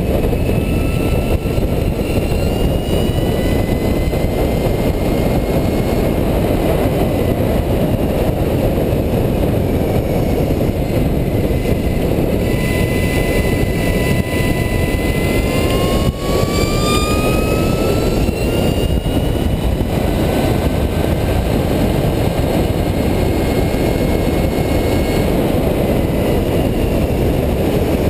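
Heavy wind rush on a handlebar-mounted camera at track speed, over the high whine of the electric bicycle's motor, which rises and falls with speed. About twelve seconds in, the whine climbs steeply as the bike accelerates, with a single knock partway through.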